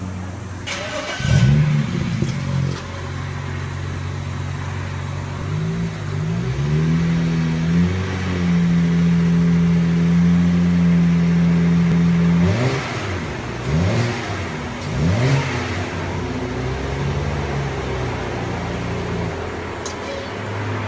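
2007 BMW 335i's twin-turbo 3.0-litre straight-six on its stock exhaust, idling and being revved: a quick rev about a second in, a rev held for about four seconds midway, then three short blips before it settles back to idle. Not too much going on, as a stock turbo exhaust is subdued.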